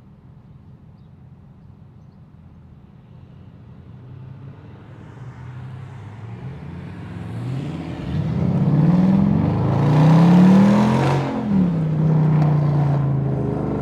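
A car engine building up and accelerating hard, its pitch rising in several pulls with gear changes, loudest about eleven seconds in, then dropping in a long falling tone as the car goes by.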